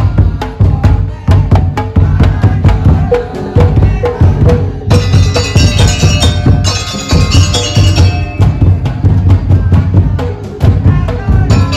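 Madurese daul (tongtong) ensemble playing loudly: fast interlocking strikes on wooden slit drums and drums over a heavy deep drum pulse, with a repeated pitched melody note a few seconds in.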